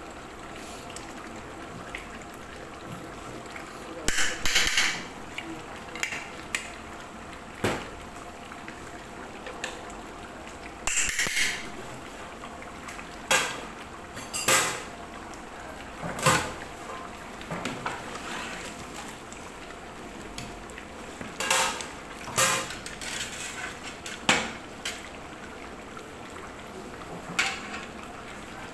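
A metal utensil knocking and scraping in a large cooking pot. There are about a dozen scattered clatters, some in quick pairs, over steady background noise.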